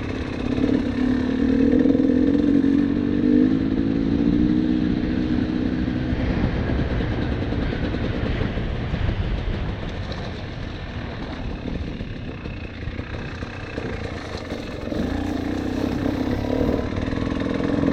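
Dirt bike engine running, its pitch rising and falling with the throttle; the engine note is strongest in the first few seconds, turns rougher in the middle and comes through clearly again near the end.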